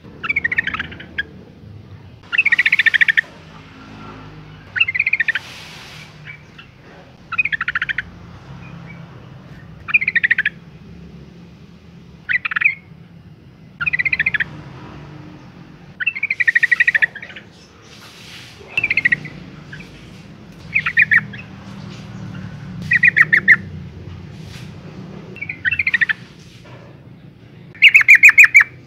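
Yellow-vented bulbul calling: short, bubbling phrases of rapid chattering notes, repeated about every two seconds. The recording is presented as a female in breeding condition calling for a male.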